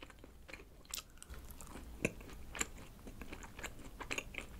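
Close-miked chewing of a mouthful of mint-chocolate layer cake: soft wet mouth sounds broken by scattered small clicks.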